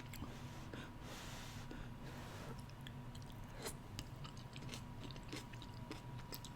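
Faint chewing of a mouthful of hot beans with onions and melted cheese: small wet mouth clicks and smacks at irregular moments.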